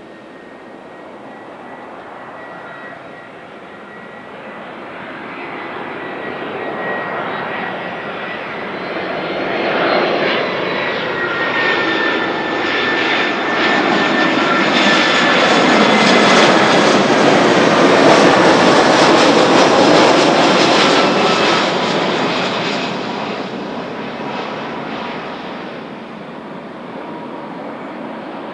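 Airbus A320 jet airliner passing on its landing approach: engine noise builds over about fifteen seconds, peaks, then fades away. A high fan whine runs through it and slides down in pitch as the plane goes by.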